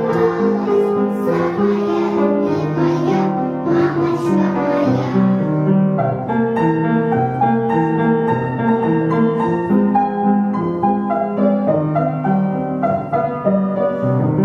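Piano music playing a tune over a regular bass line.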